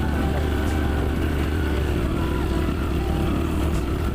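Motorcycle running at a steady pace while being ridden, with a continuous heavy low rumble.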